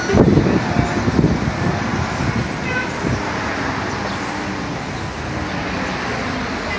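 Steady road traffic noise, with vehicles passing.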